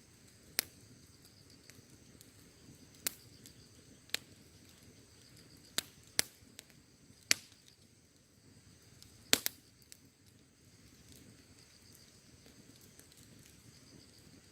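Wood bonfire crackling, with sharp pops every second or two, the loudest about seven and nine seconds in. Behind it a steady high chorus of insects, like crickets, keeps up throughout.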